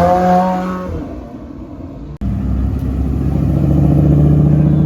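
A car engine revving up to a peak and easing off within the first second. After a sudden cut about two seconds in, a loud engine runs at a steady pitch.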